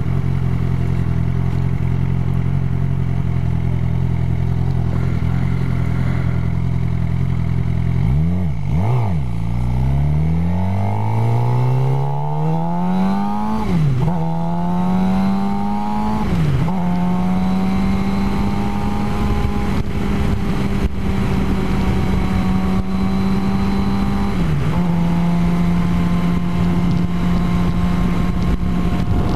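Suzuki GSX-R 750 inline-four engine under way. It holds a steady note, dips sharply and recovers twice about eight seconds in, then pulls up through the gears with a rising note that drops at each of two upshifts. It then settles into a steady cruise, with one more brief dip near the end.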